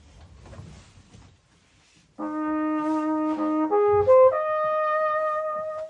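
A trumpet begins about two seconds in with a held low note, climbs quickly through a few rising notes, then holds a long higher note that stops near the end.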